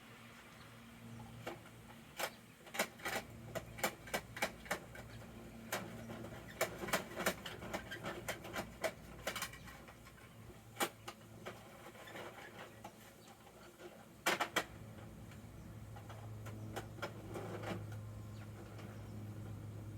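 Irregular sharp clicks and clacks from a plastic Bruder toy garbage truck being worked by hand, dense for several seconds, then a few single clacks.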